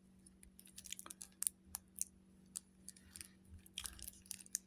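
Faint, irregular crinkling and clicking of a card-game box's packaging being handled by hand.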